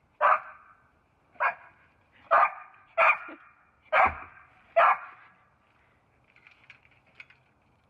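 A dog barking six times, single sharp barks about a second apart, followed by a few faint small noises near the end.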